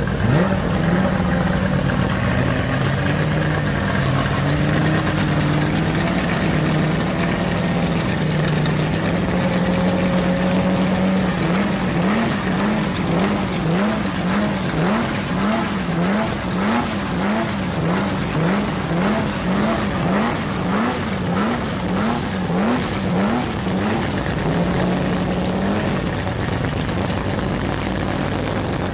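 Porsche 911 GT3 Cup race car's flat-six engine running with its exhaust note. Through the middle of the stretch the pitch rises and drops again and again, about one and a half times a second, in quick short revs.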